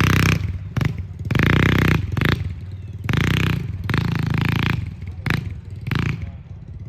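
Dirt bike engine revving in repeated short bursts, about six throttle blips that each surge and drop back.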